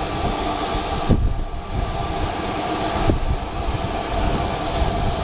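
Steady outdoor noise: an even hiss with a faint hum, and wind gusts rumbling on the microphone.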